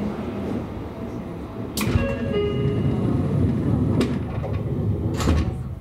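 Running noise of a Seibu commuter train: a steady low rumble, with sharp clanks about two, four and five seconds in and a few brief ringing tones after the first. The rumble drops away near the end as the train slows.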